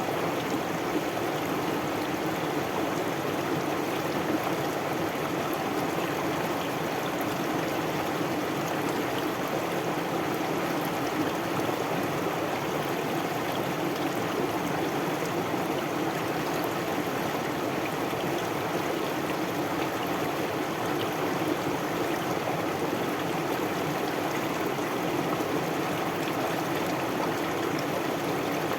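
Stream water flowing and trickling steadily: an even, unbroken rushing that neither rises nor falls.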